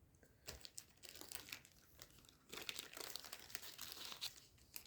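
Foil trading-card booster pack wrapper crinkling faintly as it is handled, in two spells of crackling.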